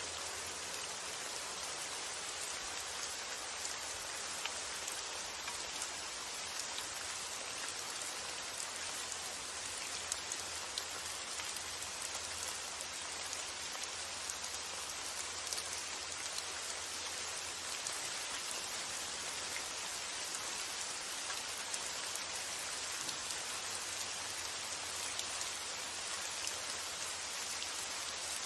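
Steady rain falling, an even hiss with scattered louder drop ticks, over a low steady rumble.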